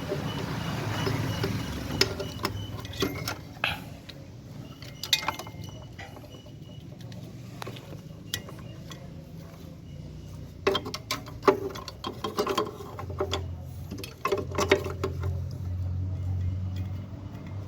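Clicks, clinks and knocks of a refrigerator compressor's PTC starting relay and its cover being fitted back in place by hand, in irregular bursts. A steady low hum comes in over the last few seconds.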